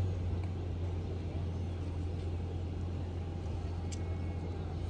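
Steady low rumble of a running vehicle, with a single short click about four seconds in.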